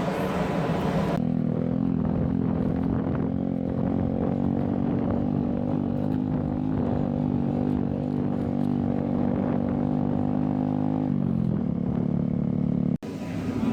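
An engine running at a steady speed, a low even drone that holds one pitch. The sound changes abruptly about a second in and drops out for a moment near the end.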